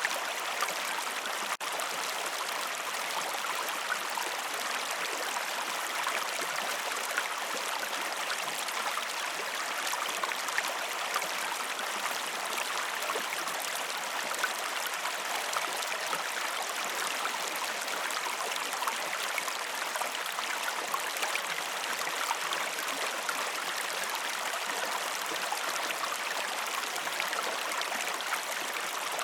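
River water flowing steadily over stones, a constant rushing with small trickling splashes and no music. There is a momentary dropout about a second and a half in.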